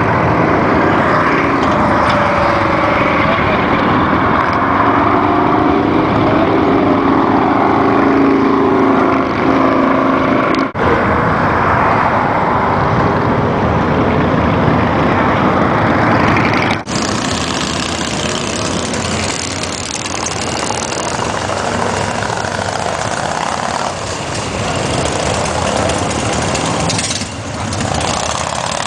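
Motorcycle running at road speed, its engine note mixed with heavy wind rush on the microphone. There are two very brief dropouts, at about 11 and 17 seconds in.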